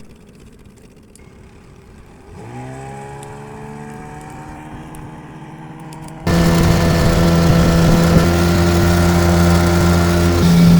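A small engine starts up about two seconds in, its pitch rising briefly before it settles into a steady run. A few seconds later a much louder, steady engine sound comes in abruptly.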